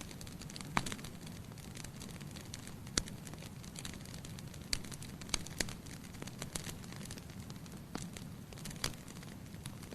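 Wood fire crackling in a fireplace: a steady low rush of flame with irregular sharp pops and snaps.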